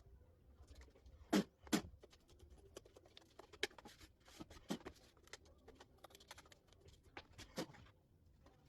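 Irregular light clicks and taps with faint rubbing from fan parts being handled and cleaned by hand, with a few sharper knocks, twice in quick succession about one and a half seconds in.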